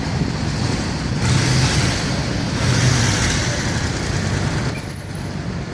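Motorcycle engine running, growing louder about a second in and easing off near the end.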